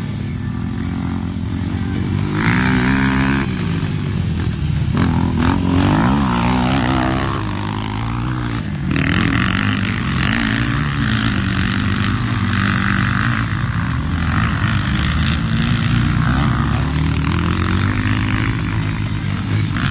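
Trail bike's four-stroke single-cylinder engine running under load, its pitch rising and falling over and over as the rider opens and closes the throttle and changes gear. It eases off briefly around the middle, then runs hard again.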